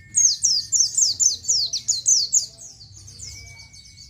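White-eye (pleci) singing a 'ngalas'-style song: a fast run of high, downward-slurred chirps, several a second, loud for the first two and a half seconds and then softer. A faint steady high whistle sounds behind it at the start and again from about three seconds in.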